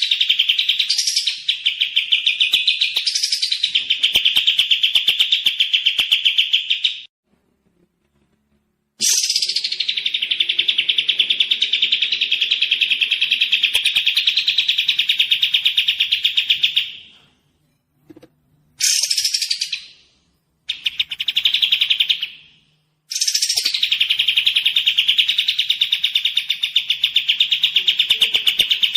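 A songbird singing long phrases of fast, even trills, each opening with a high downward sweep and running several seconds, with short silent gaps between phrases.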